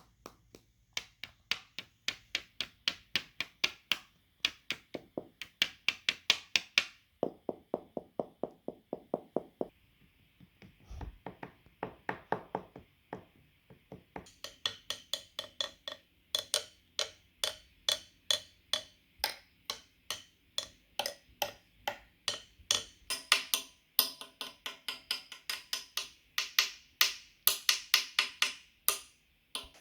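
Rapid rhythmic tapping and knocking, like wood-block percussion. The short strikes change in tone and spacing every few seconds, with a single low thud about eleven seconds in.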